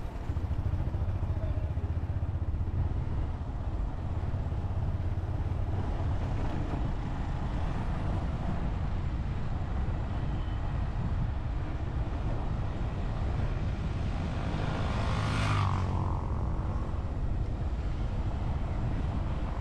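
Motorcycle riding along, with a steady low engine and road rumble mixed with wind noise. About fifteen seconds in, a brief louder whoosh swells and fades, like another vehicle passing close by.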